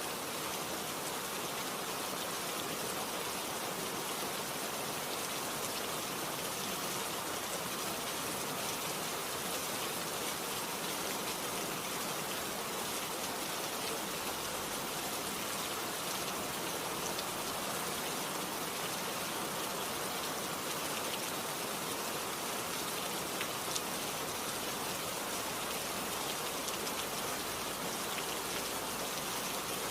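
Steady rain falling, an even hiss with the patter of raindrops on surfaces.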